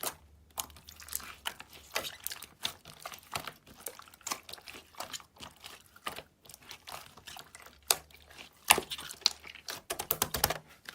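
Slime mixed with small plastic shell-shaped charms being squeezed and poked by hand, giving irregular crackling clicks and pops, with a quick run of them near the end.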